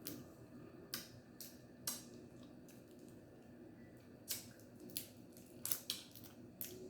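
Snow crab shells cracking and snapping apart: about nine short, sharp cracks at irregular intervals.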